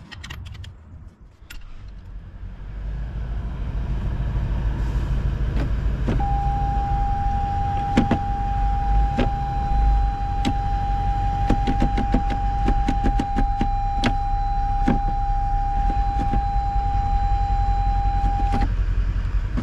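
A Toyota LandCruiser 200 Series' V8 turbo-diesel idles with a steady low rumble that builds over the first few seconds. Sharp clicks come from the automatic gear selector being moved through the gears to circulate fluid during a transmission flush. A steady high electronic tone sounds for about twelve seconds in the middle.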